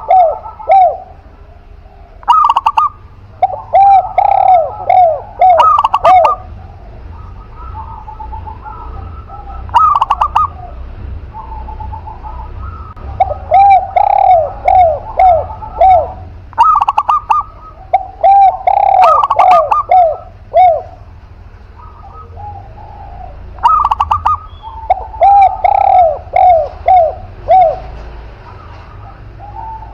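Caged spotted dove (tekukur) and zebra dove (perkutut) cooing, phrase after phrase every few seconds: a couple of higher clipped notes, then a quick run of short rolling coos.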